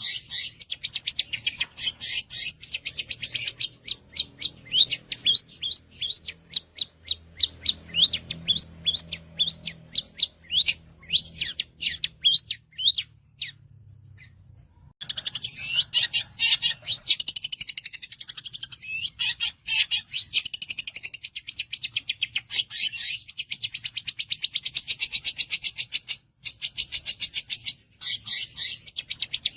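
Long-tailed shrike (cendet) singing: fast runs of short, high repeated notes. About halfway through there is a brief pause, then a more varied stretch with sliding notes before the rapid runs return.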